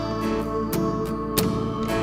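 Live worship band playing an instrumental intro, led by strummed acoustic guitar, with sharp strokes at a regular beat.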